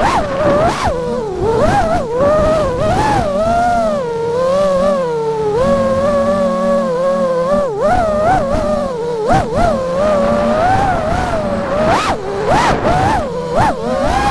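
FPV quadcopter's brushless motors (Axisflying C227 1960kv) whining, the pitch rising and falling continually with throttle changes, with quick surges and dips in the first two seconds and again near the end, and steadier stretches in between.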